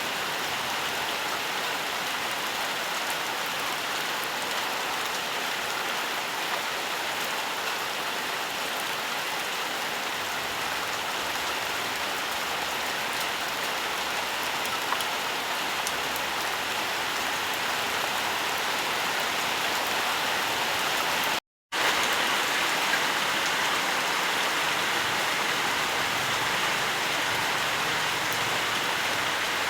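Steady rainfall: an even, dense hiss of rain with scattered faint drop ticks. It cuts out completely for a fraction of a second about two-thirds of the way through, then resumes unchanged.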